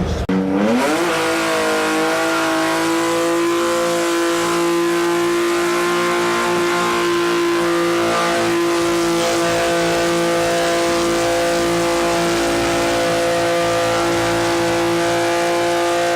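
A car engine revs up sharply and is then held at steady high revs for a long stretch during a burnout.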